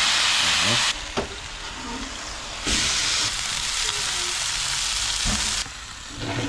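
Whole trevally sizzling on a barbecue hotplate: a steady frying hiss that drops about a second in, comes back louder a couple of seconds later, and falls away again near the end. A couple of light knocks are heard along the way.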